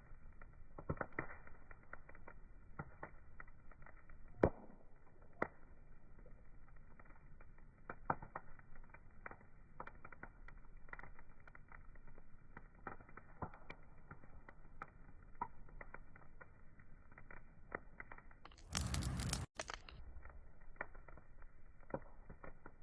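Wood fire crackling, with irregular small pops and one sharp, louder pop about four seconds in. Near the end comes a burst of hiss lasting about a second that reaches much higher in pitch than the crackle, broken by a brief gap.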